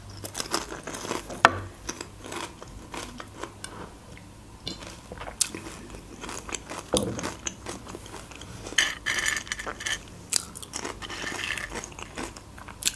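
Close-up chewing and crunching of dry, crunchy beer snacks such as chips and nuts: irregular crisp crunches and clicks, with a denser run of crunching about nine seconds in.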